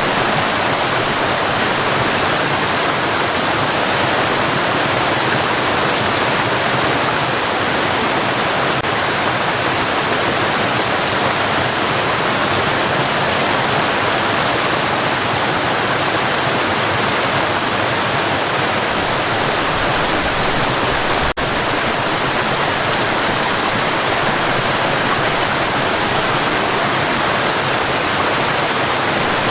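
Steady white noise, a continuous even hiss with no change in level, broken only by a momentary dropout about two-thirds of the way through.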